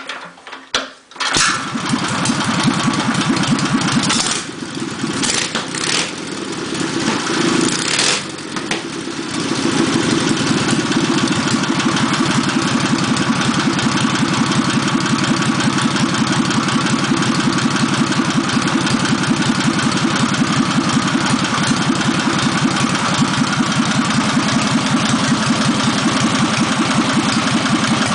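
BMW R75's flat-twin engine starting: it catches about a second in, runs unevenly with a few sharp cracks for several seconds, then settles into a steady idle.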